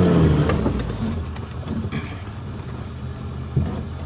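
Suzuki Jimny's engine revving up and easing off under load as it crawls over tree stumps on a rough trail, then running lower. A single knock about three and a half seconds in.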